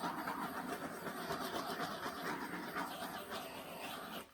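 Handheld butane torch burning with a steady hiss as it is passed over wet acrylic pour paint; the flame cuts off near the end.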